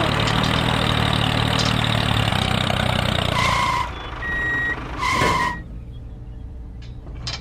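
A small engine running steadily, which stops a little under four seconds in. Two short electronic beeps follow, about a second and a half apart.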